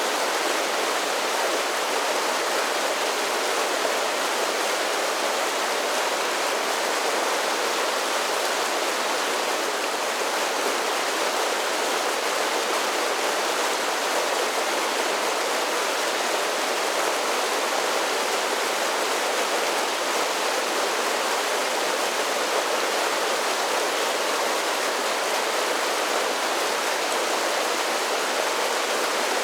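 Mountain creek cascading over a series of small waterfalls: a steady, even rush of falling water.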